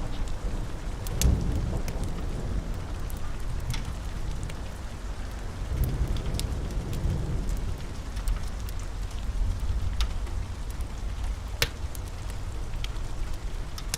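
Steady rain with low rolling thunder that swells about a second in and again around six seconds, and scattered sharp clicks throughout.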